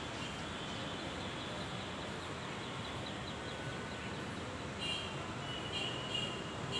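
Steady outdoor background noise with small birds chirping. From about five seconds in, short high chirps repeat several times.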